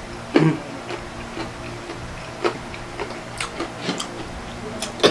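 Mouth sounds of eating fried chicken: irregular wet clicks and lip smacks while chewing, the loudest about half a second in.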